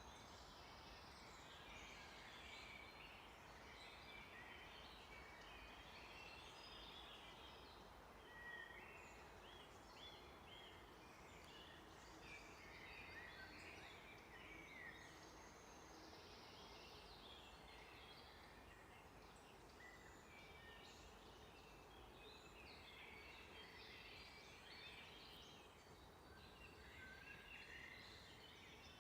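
Faint chorus of many songbirds chirping and trilling over each other, over a steady background hiss.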